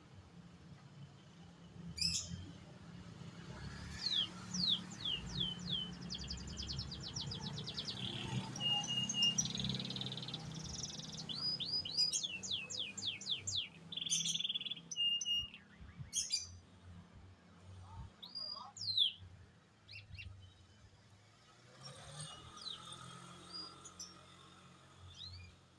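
Domestic canary singing actively. Its song comes in bursts of quick downward-sweeping notes, rapid rolling trills and buzzy phrases, separated by short pauses.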